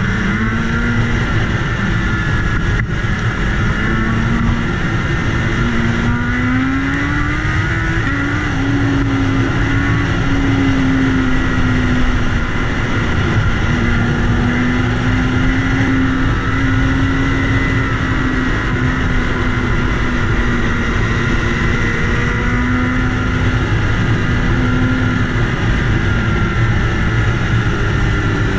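BMW S1000RR inline-four engine running at speed, heard from on board with heavy wind rush over the microphone. The revs climb about six to eight seconds in, then hold fairly steady with small dips.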